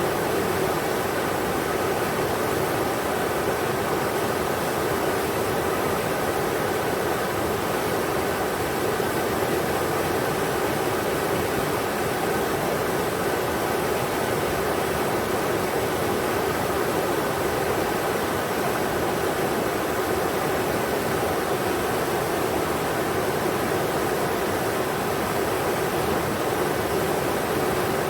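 Englishman River flowing and rushing over rocks: a steady, even rush of water.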